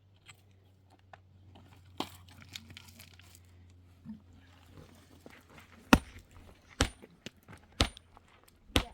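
Hand work with cement on a building site: gritty scraping and crunching, then four sharp knocks about a second apart near the end, over a faint low hum.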